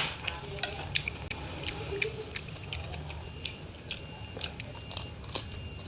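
Mukbang eating sounds: a spoon clicking and scraping against a plate of fried rice, with wet chewing and mouth clicks, irregular and close-up, over a steady low hum.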